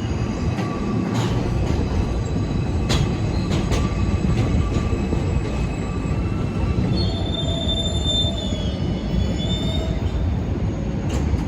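New York City subway train running through an elevated station: a loud, steady rumble of wheels on rail with a few sharp clicks, and a high wheel squeal for a couple of seconds in the second half.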